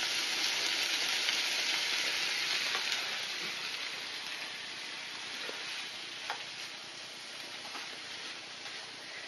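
Chopped broccoli sizzling in a hot skillet, a steady hiss that eases off a few seconds in. A few faint clicks near the end.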